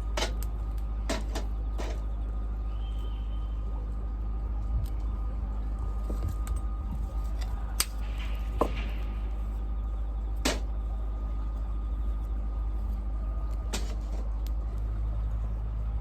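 Small wood fire crackling, with a handful of sharp pops spread through, over a steady low rumble.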